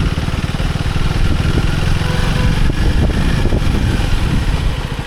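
KTM Duke 390 single-cylinder engine running steadily while the bike is ridden, its firing heard as a fast, even low pulse under the rush of wind noise.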